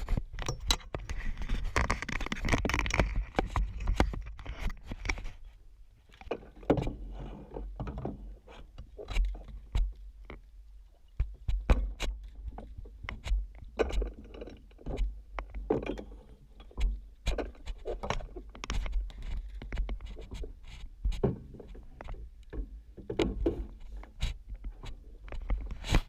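Irregular knocks, clicks and scraping over a steady low rumble, busiest in the first few seconds.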